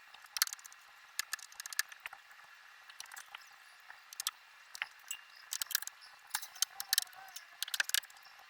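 Irregular sharp clicks, ticks and light rattles of small hard objects being handled, coming in quick clusters about every half second to a second.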